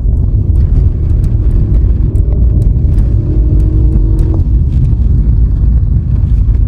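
Vehicle driving with a heavy, steady low road-and-engine rumble. An engine note rises in pitch a little from about two seconds in and fades out after about four seconds.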